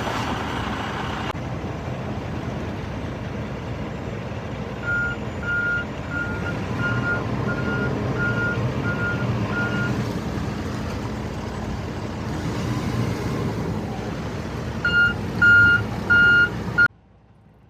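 Vehicle backup alarm beeping over a steadily running engine: a faint run of beeps about two a second from about five seconds in, then a few louder beeps near the end before the sound cuts off.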